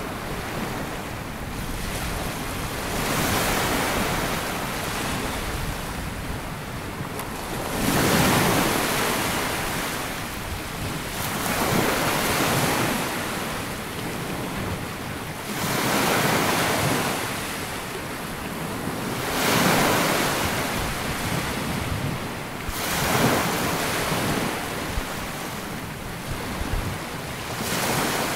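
Small waves breaking and washing up a sandy beach, one surge about every four seconds, each swelling and then fading back, with some wind on the microphone.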